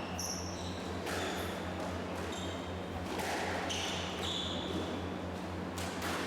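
Squash rally: the ball is struck hard every couple of seconds, with short high squeaks of court shoes on the wooden floor between shots, over a steady low hum.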